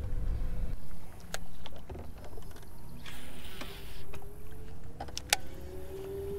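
A small boat motor running slowly: a faint steady whine over a low rumble, its pitch rising slightly in the second half. A few sharp clicks are heard, one about a second in and another near the end.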